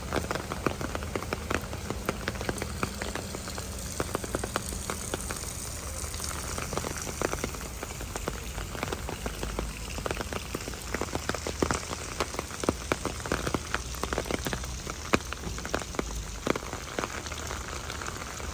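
Steady rain falling, with many sharp, irregular drop taps close by on top of the even hiss.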